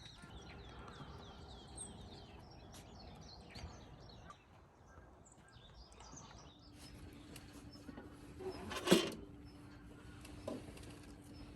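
A bird calls in a quick run of short falling chirps during the first few seconds over quiet outdoor ambience. A faint steady hum comes in partway through, and a single sharp click sounds about nine seconds in.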